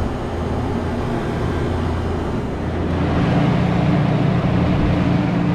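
Steady machine hum from a walk-in freezer's refrigeration unit with its newly fitted evaporator fan motors. About three seconds in, a louder, higher hum joins it and holds steady.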